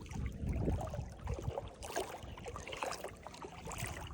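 Legs wading through shallow, mucky swamp water, splashing and sloshing unevenly with each step.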